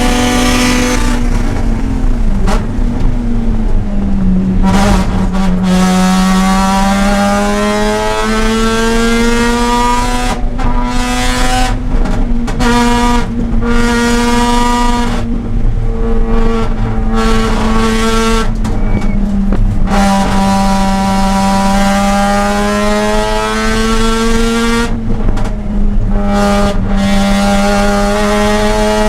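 Mazda RX-8's two-rotor Renesis rotary engine at racing revs, pulling hard on track. Its pitch climbs and falls again and again, with short breaks at each shift or lift.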